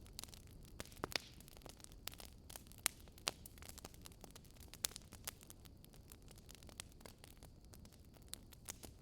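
Wood burning in a fireplace: irregular crackling with scattered sharp pops over a soft, steady low rumble of the fire. The loudest pops come about a second in, around three seconds in, and near five seconds in.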